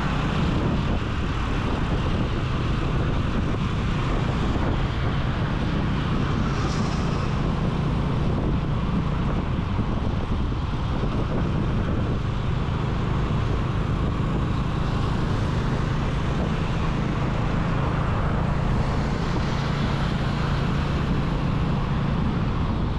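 Motorcycle engine running steadily while riding, with a steady low hum, under wind rushing over the action camera's microphone and road noise.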